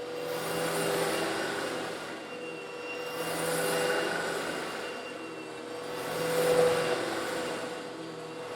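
Old Eureka vacuum cleaner running while it sucks up small coarse stone granules: a steady motor hum under a rush of suction that swells and fades about every three seconds.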